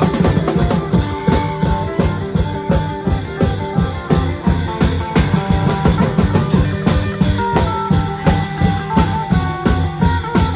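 Thai Isan klong yao long-drum band playing: a fast, even beat of drum strokes under a plucked-string melody.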